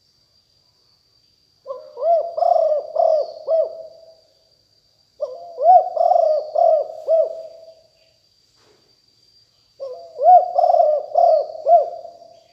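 Spotted dove cooing: three phrases of about four or five low, arched coos each, with short pauses between the phrases.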